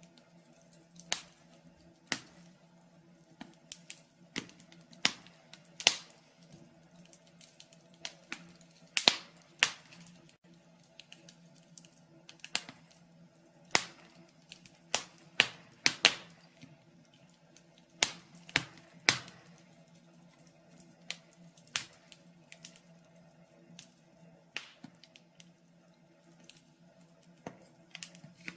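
Wood fire burning in a fireplace: irregular sharp crackles and pops, some loud snaps and many faint ticks, over a faint steady hum.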